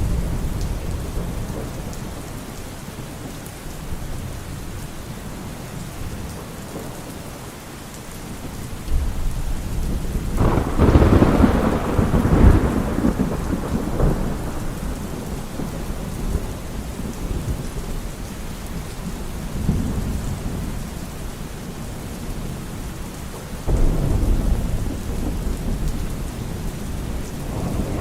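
Thunderstorm: steady rain with rolling thunder. A loud thunderclap about ten seconds in rumbles on for several seconds, and another rumble breaks in near the end.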